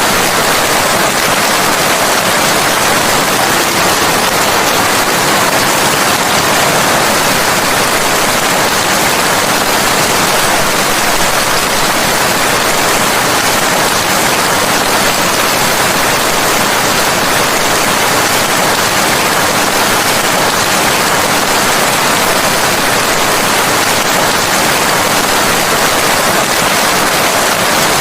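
Steady rain falling, a loud, even hiss with no changes or separate drops standing out.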